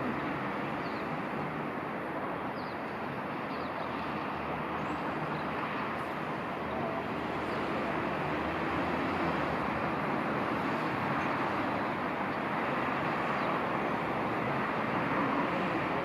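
JR West 221 series electric train approaching the platform: a steady running rumble that grows a little louder about seven seconds in. Faint bird chirps sound in the first half.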